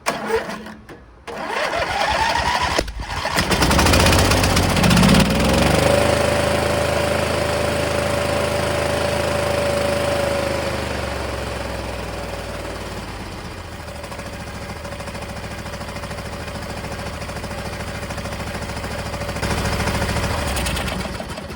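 26 hp Briggs & Stratton V-twin on an MTD Gold garden tractor, choke on, cranked briefly and catching about three seconds in. It revs up, then runs steadily on both cylinders: a fuel-cut and fuse fault, not a failed ignition, had kept it from starting.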